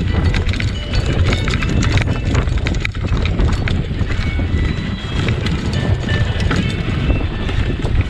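Bicycle rattling and clattering over rough, bumpy ground, with a steady low rumble from wind buffeting the microphone.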